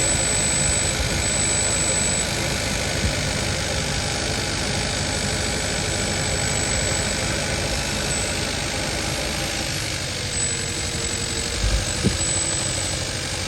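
2015 Kia Forte's 1.6 GDI four-cylinder engine idling while coil 4's connector is pulled and plugged back in, so its tune changes as cylinder 4 loses spark and then smooths out again. That change shows coil 4 is firing, which points to the coil on cylinder 3 as the bad one. A few brief knocks come near the end.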